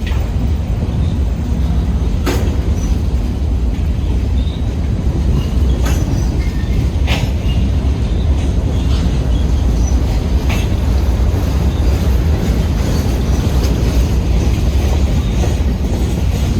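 Freight train cars rolling past: a steady low rumble of steel wheels on rail, with a few sharp clanks every few seconds.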